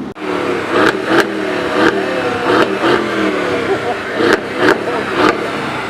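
A car engine revved in repeated blips, its pitch rising and falling, with about a dozen sharp cracks, the loudest near the start and around the middle.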